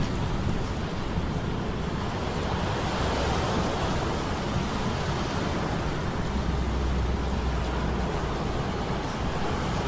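Steady low hum of metal gears layered with stormy sea sound effects: a continuous rush of waves and wind. The low hum swells for a couple of seconds past the middle.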